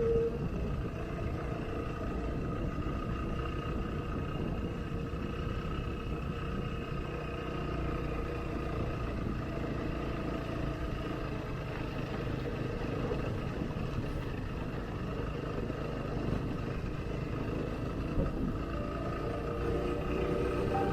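Motorcycle engine running steadily on the move, under a constant rush of road and wind noise.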